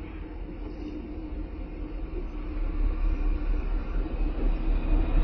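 Diesel locomotive and passenger coaches approaching: a steady low engine and wheel rumble that grows louder from about halfway through.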